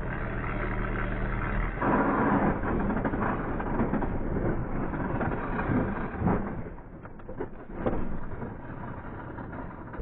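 Motorcycle engine running with a steady hum, then a loud, rough rush of noise from about two seconds in that eases off after about six seconds, followed by a few knocks.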